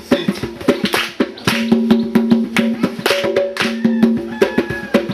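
Percussion music: quick, sharp strokes in a busy rhythm over steady held tones.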